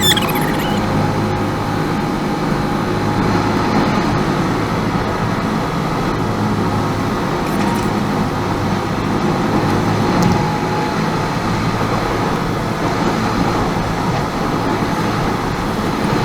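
Steady hum of a car's engine with road and tyre noise while driving.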